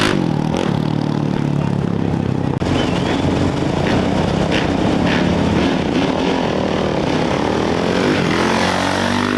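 Off-road racing motorcycle engines running and revving, with an engine climbing in pitch near the end as it accelerates.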